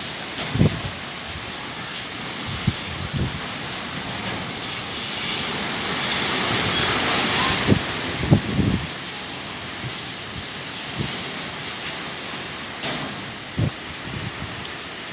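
Heavy rain pouring down steadily, growing heavier for a few seconds in the middle, with a few short, dull low thumps scattered through it.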